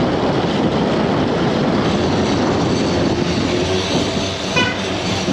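Steady rumbling noise of a moving vehicle on the road, with a short high beep about four and a half seconds in.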